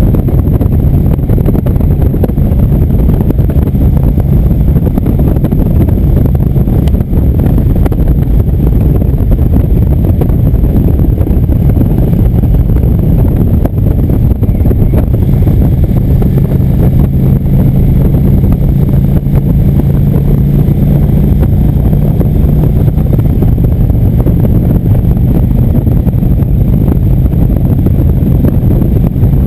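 Indian motorcycle riding at road speed: the engine runs steadily under heavy wind buffeting on the microphone, and its note grows stronger for a stretch past the middle.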